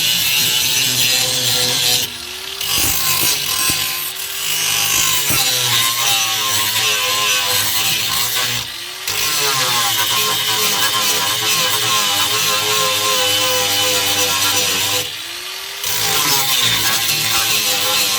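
Power tool working on the truck's sheet-metal floor, run in several long stretches. It lets off briefly four times, and each time its pitch climbs as it spins back up.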